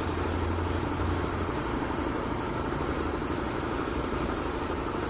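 Steady low hum and rumble of a running engine, unchanging throughout.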